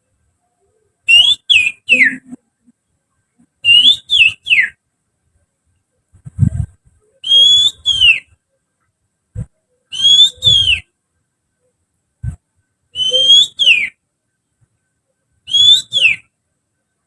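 Human finger whistling imitating an Oriental magpie-robin's song, used as a lure call: six short phrases of sliding whistles, each rising and then falling, a few seconds apart. Soft low thumps come between some phrases.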